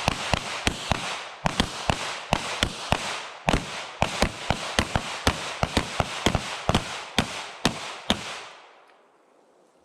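A line of handguns firing together in rapid, uneven strings, about two dozen overlapping shots over some eight seconds. The shooters fire until their magazines run dry, and the shooting thins out and stops near the end.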